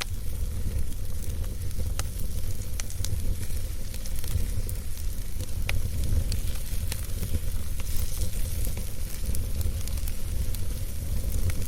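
Wood campfire burning: a steady low rumble of the flames with scattered sharp crackles and pops of the burning wood.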